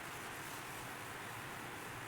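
Steady hand scrubbing, a refrigerator surface being rubbed clean.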